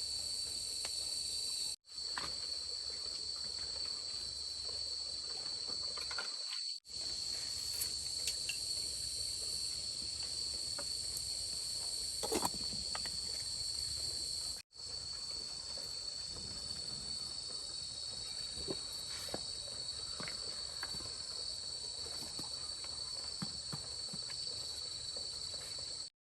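Steady high-pitched insect chorus, like crickets trilling, that drops out briefly three times, with a few faint clicks and knocks beneath it.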